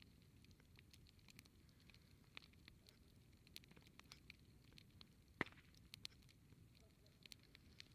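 Wood campfire crackling faintly: scattered small pops and ticks, with one sharper snap about five and a half seconds in.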